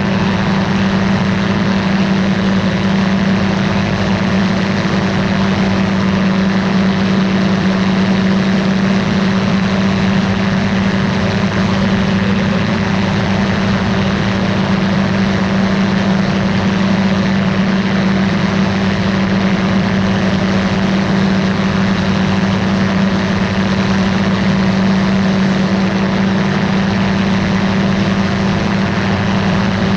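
Ultralight aircraft's engine and propeller running steadily at constant power, a loud even drone with a strong low hum.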